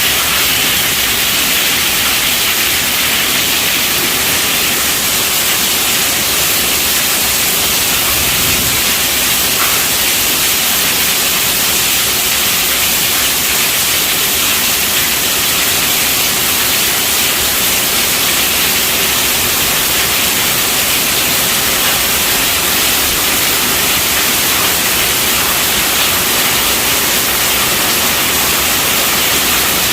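Heavy rain drumming steadily on a tent roof, a dense, even hiss with no breaks or thunder.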